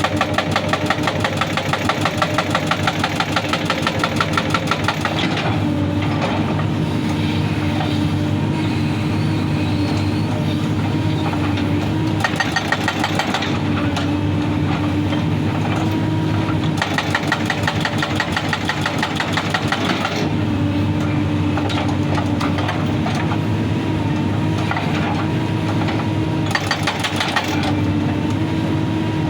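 Excavator engine running steadily while its hydraulic rock breaker hammers in bursts of rapid, even blows, each burst lasting one to several seconds, with stretches of the engine alone in between.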